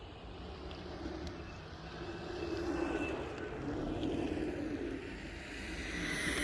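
Dual belt-drive electric skateboard riding past: hub-less motors whining over the rumble of 110 mm wheels rolling on pavement, getting louder as it comes closer.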